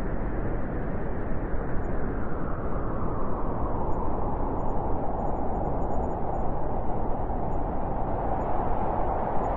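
Blizzard wind blowing steadily in a dense rushing noise, with a howling band in the middle that grows stronger a few seconds in.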